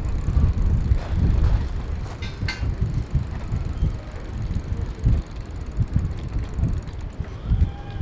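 Wind buffeting the microphone of a moving bicycle rider: a low, gusty rumble that rises and falls, with a brief clatter about two and a half seconds in.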